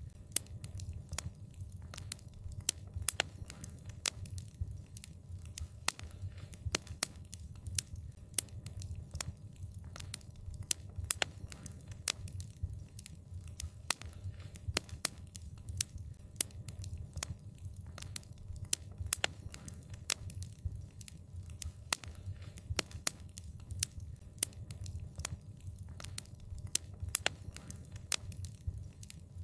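Wood fire crackling: frequent sharp pops and snaps at irregular intervals over a steady low rumble of the flames.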